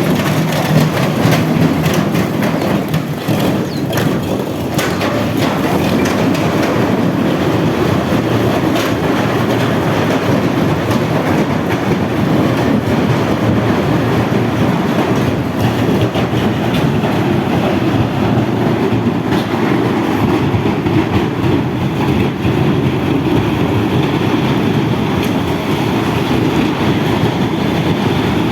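Loud, steady rumbling clatter of a heavy vehicle, with a few sharp clanks in the first few seconds.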